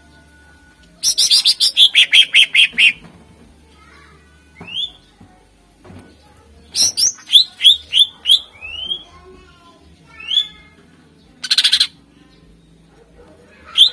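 Green leafbird (cucak ijo) singing in loud bursts: a rapid run of about ten falling notes a second in, then quick rising whistled sweeps around the middle, and a short harsh rattle near the end.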